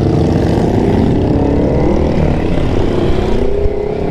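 Triumph Tiger three-cylinder motorcycle engine running under way, with wind rush over the helmet camera; the engine note sags a little, then climbs again near the end.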